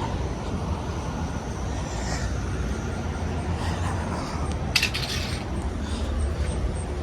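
Steady low rumble of vehicle traffic, with a single sharp click about five seconds in.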